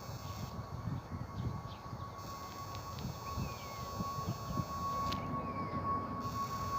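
Steady high-pitched whine of an Airbus A320neo's jet engines as the airliner taxis, growing louder near the end, with wind rumbling on the microphone.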